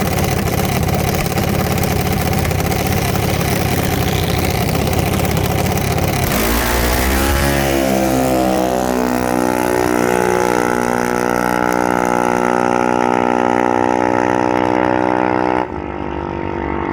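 Junior dragster engine on a pass: a loud rough running sound, then about six seconds in the engine note climbs quickly and holds steady at high revs before cutting off near the end.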